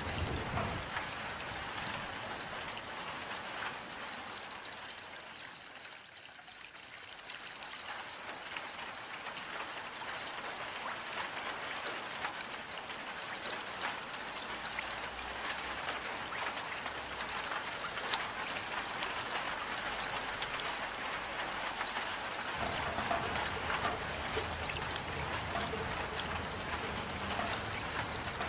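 Steady rain falling, a dense patter of drops. It eases a little about six seconds in, then builds again, with a low rumble joining near the end.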